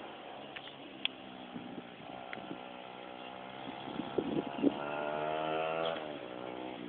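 Pit bike engine running at a distance, its pitch climbing steadily as it revs up and then dropping off about six seconds in. A few sharp knocks sound around four seconds in.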